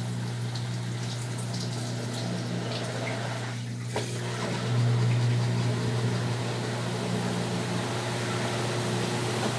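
Brastemp BWR12AB washing machine running mid-cycle: water sloshing and flowing over a steady electric hum. About four seconds in there is a brief dip and a click, then the hum grows louder.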